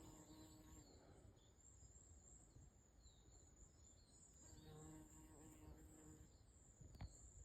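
Faint buzz of a bumblebee in flight, heard twice: for about the first second and again for a second and a half around the middle. Behind it are a steady high-pitched hiss and a few faint bird chirps.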